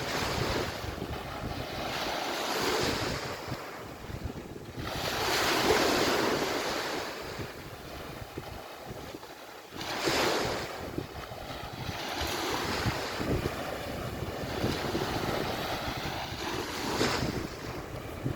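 Waves washing onto the beach, the surf swelling and falling away in surges every few seconds, with wind buffeting the microphone.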